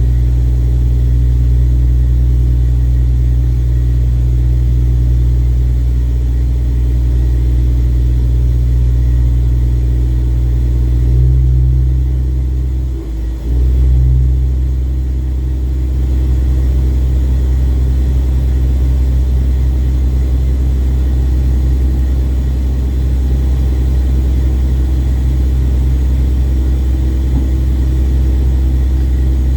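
Ship's engine running with a steady low drone, briefly surging and dipping near the middle.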